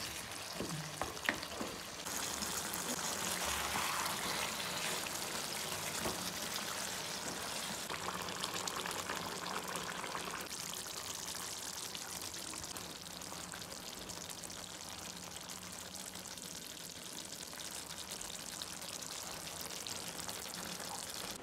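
Chicken legs and potatoes sizzling and bubbling in gravy in a frying pan, with a few spatula clicks against the pan at the start. About two seconds in the sizzle grows louder, then slowly eases.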